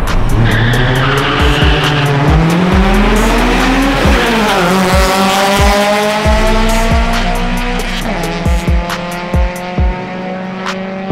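Car engine revving hard: its pitch climbs steadily for about four seconds, drops sharply, then holds steady.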